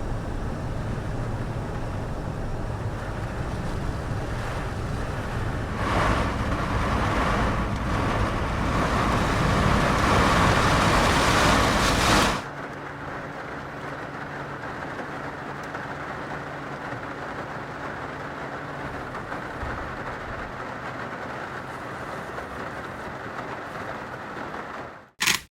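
Heavy rain: a steady rushing hiss that grows louder, then cuts suddenly about twelve seconds in to a quieter, steady rushing with a faint low hum.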